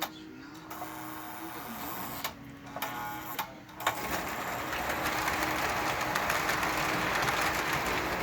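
Lionel O-gauge Conrail Rectifier electric locomotive starting off on the track with a freight train: a faint hum first, then about four seconds in the steady running noise of its motor and wheels rises and holds.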